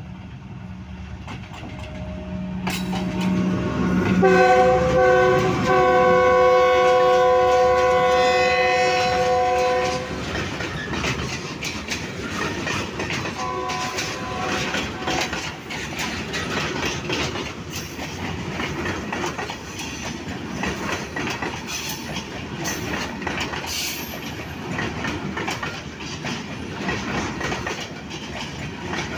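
Diesel locomotive approaching with its engine rumbling, then sounding its multi-tone horn in one long blast of about six seconds, followed by a shorter, fainter blast. The locomotive passes and loaded coal hopper wagons roll by close up, with a steady clatter and rhythmic clicking of wheels over the rail joints.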